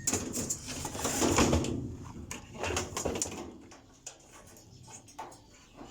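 Plastic parts of a washing machine's top panel being handled, with clicks and rattles as the pressure-switch hose and wiring are disconnected. The handling is loudest for the first three seconds or so, then falls to a few faint knocks.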